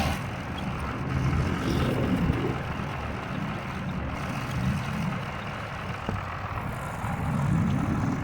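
Tractor engine running steadily, its level swelling and easing a little as it works.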